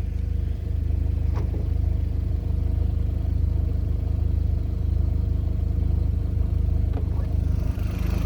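Audi TT 225 quattro's 1.8-litre turbocharged four-cylinder (BAM) engine idling steadily.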